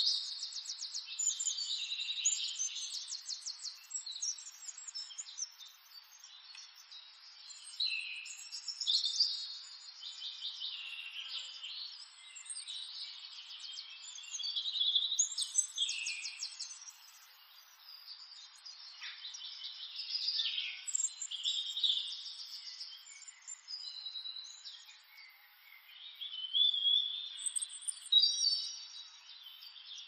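Songbirds singing: chirps and fast trills in bursts every few seconds, high-pitched with no low sound beneath.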